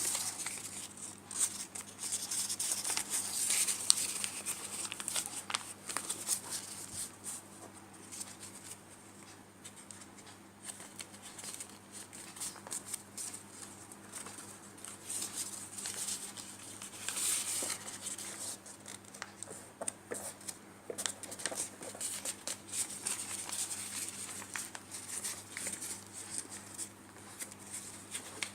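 A sheet of paper being folded and creased by hand into an origami crane. It rustles and crinkles irregularly, with small clicks and scrapes, and gets busier about two to four seconds in and again just past the midpoint.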